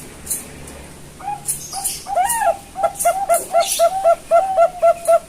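Zebra dove (Bangkok perkutut) cooing: a few single coos about a second in, then a fast, even run of short rising-and-falling coos, about three a second. Sharp high ticks are scattered over it.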